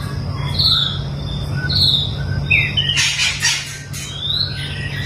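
White-rumped shama calling: short clear whistled notes, a harsh rasping call about three seconds in, then a rising whistle, over a steady low hum.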